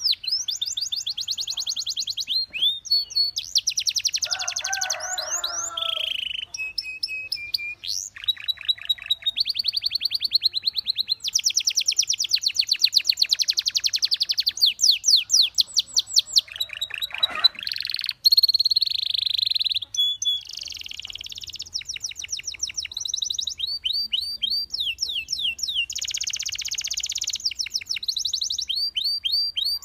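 Belgian canary singing: fast rolling trills of rapidly repeated high notes, switching from one trill pattern to the next every second or two with barely a break.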